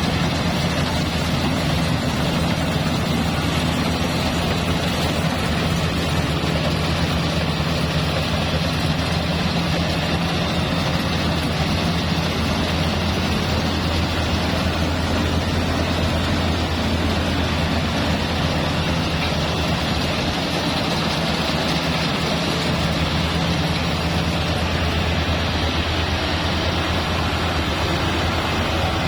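Engine-driven rice thresher running steadily, a constant low engine hum under a dense mechanical rushing from the threshing drum.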